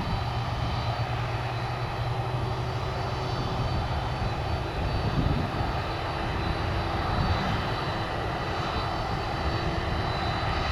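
Airliner jet engines running: a steady rumble with a faint high whine.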